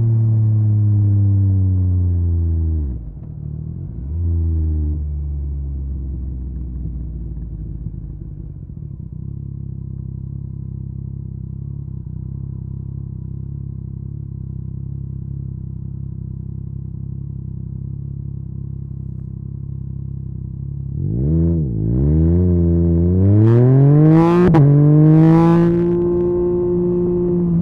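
Yamaha MT-09's inline-three engine through an Akrapovic carbon exhaust, the note falling with a couple of downshifts as the bike slows, then running steadily at low revs. About twenty seconds in it revs up hard, climbing through the gears with a rising note broken by shifts and two sharp cracks, and settles to a steady, higher cruising note near the end.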